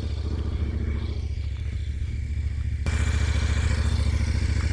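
KTM 1290's V-twin engine idling with a steady, even low pulse. The higher part of the sound changes abruptly about three seconds in.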